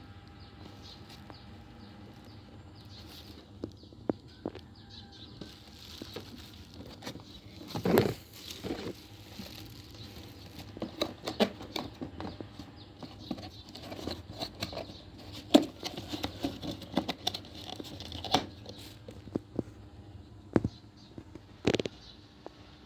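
Hattasu FC08-50 mini ceiling fan running with a faint, steady motor hum, under irregular clicks, taps and rustling, the loudest of them about 8, 15 and 22 seconds in.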